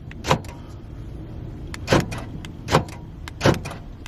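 Power door locks of a Mazda B3000 pickup clunking four times, about a second apart, as they cycle during key remote programming.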